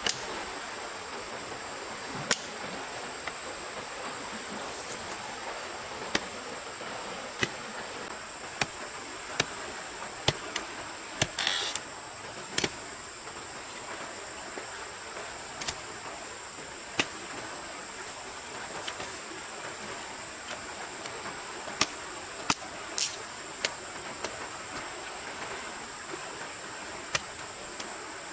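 Sharp, irregular knocks or taps, roughly one every second or two, with a short scraping burst about a third of the way in, over a steady rushing hiss and a thin, steady high-pitched tone.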